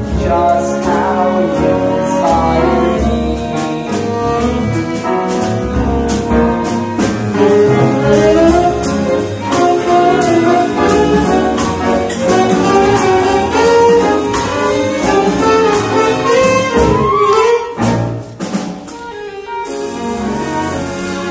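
Small pit orchestra of saxophone, strings, double bass and drums playing an upbeat jazzy instrumental passage with a steady drum beat; the band drops out to a quieter moment near the end before coming back in.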